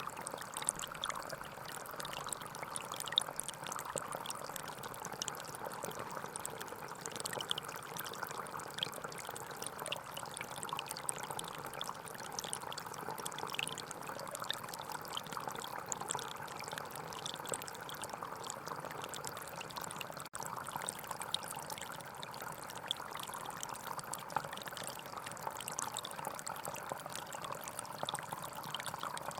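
Forest stream flowing steadily, a continuous babble of running water with fine splashing and trickling. The sound drops out for an instant about twenty seconds in.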